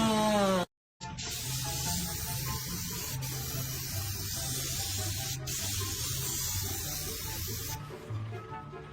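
A steady spraying hiss that runs for several seconds after a sudden cut about a second in.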